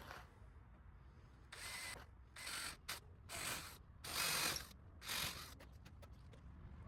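Power drill running in about six short bursts as it works into wooden fence planks, followed by a few light clicks.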